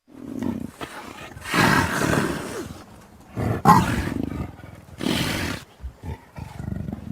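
Big-cat roar and snarl sound effects made for a cartoon mountain lion character: about five separate roars or snarls in a row, each lasting under a second to about a second and a half, with short gaps between them.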